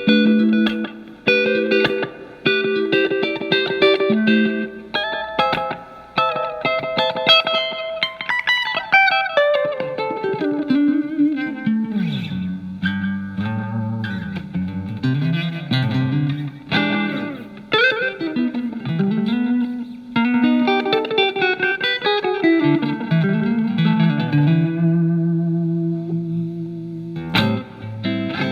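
Fender Telecaster with single-coil alnico pickups played through a Marshall MG15FX solid-state amp on its clean channel with the delay effect on: picked notes and chords, with a run falling in pitch about eight seconds in that leads into lower notes.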